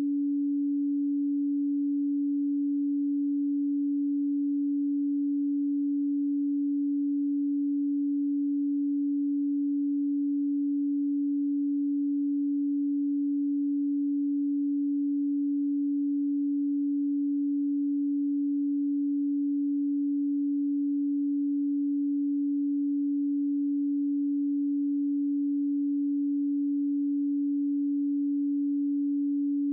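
A pure, steady 285 Hz sine tone, one unbroken low hum at constant pitch and level with no overtones.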